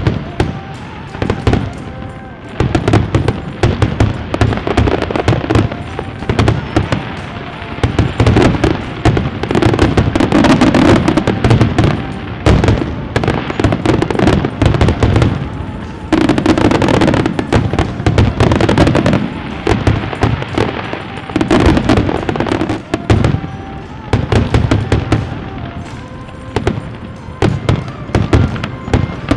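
Fireworks display going off in rapid, nearly continuous volleys of bangs and crackles, heaviest around ten seconds in and again from about sixteen to nineteen seconds.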